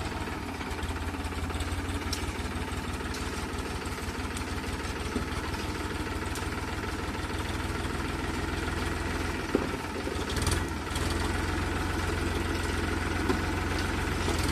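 A farm machine's diesel engine running steadily at low speed, with a couple of brief knocks about ten seconds in.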